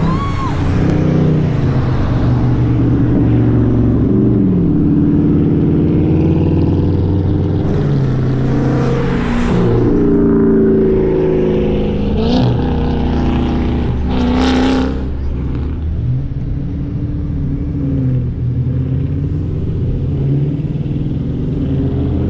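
Car engines running and revving, the pitch rising and falling several times, with a few short sharp bursts in the middle.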